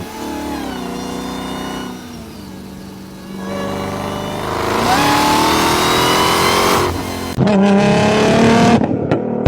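A car engine revving with a loud exhaust note. The pitch falls away and settles lower, then climbs steadily as it accelerates. About seven seconds in, a louder, different engine sound abruptly takes over.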